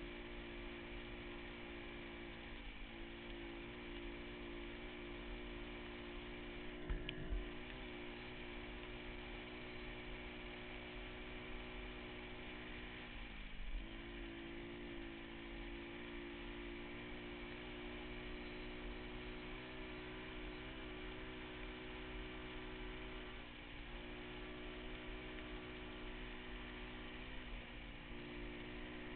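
Pit bike engine running at a steady speed, its pitch dropping briefly and picking back up about five times as the throttle is eased and reopened or the gears are shifted. A few dull low thumps come about a third of the way in.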